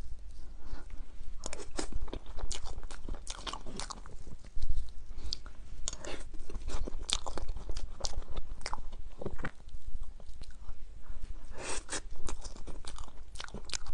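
Close-miked mouth sounds of a person biting and chewing a chocolate-coated dessert: irregular crisp crunches and wet chewing, with one louder crunch about five seconds in.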